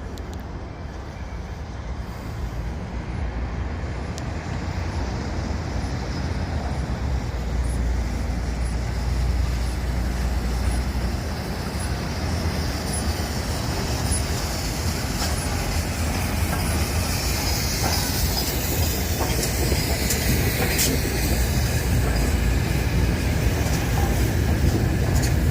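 Steam-hauled train approaching through a station, its rumble growing steadily louder, with a few clicks from the wheels over rail joints in the second half.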